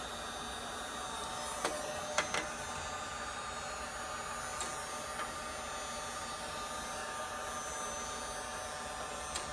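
Electric heat gun blowing steadily, a constant whirring rush, with a few light clicks about two seconds in.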